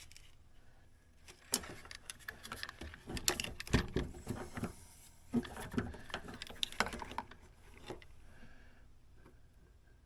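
Hands working with small parts: a run of irregular clicks, taps and rustles lasting about six seconds, starting about a second in and dying away near the end.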